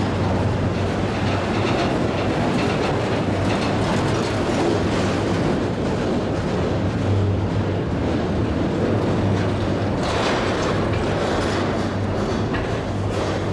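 Empty autorack freight cars rolling past at close range: a steady rumble of steel wheels on the rails with a low hum underneath, and a few louder clatters about ten seconds in.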